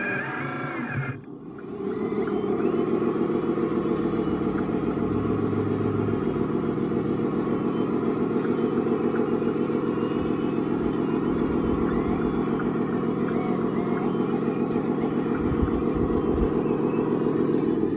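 Radio-controlled construction model running under power: a steady motor-and-gear drone that drops out briefly about a second in, then picks up and holds steady.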